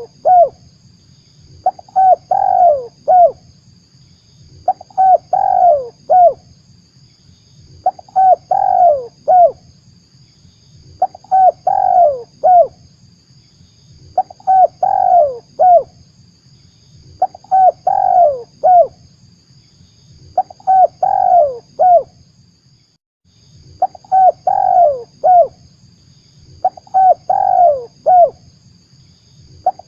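Spotted dove (tekukur) cooing: a phrase of three or four coos, repeated about every three seconds.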